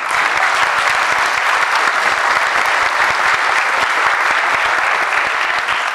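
Audience applauding: dense, steady clapping that starts suddenly and cuts off abruptly near the end.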